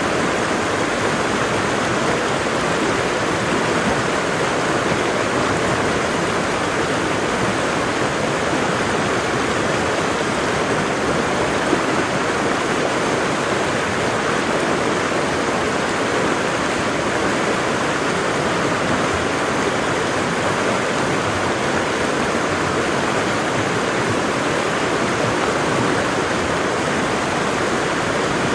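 Waterfall: water falling and splashing with a steady, even rush.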